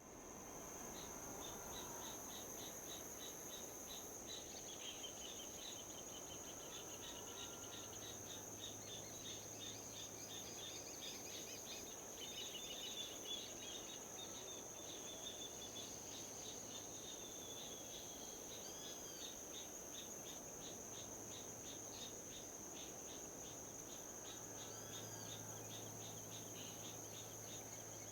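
Insects chirping outdoors: a steady high-pitched drone with rapid, evenly repeated chirps below it, over a faint even rush of wind. A bird calls briefly a couple of times in the second half.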